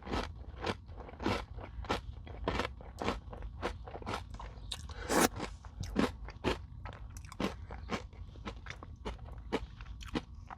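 Close-up chewing of a crunchy Nature Valley granola bar coated in Greek yogurt and whipped cream: a steady run of sharp crunches, about three a second.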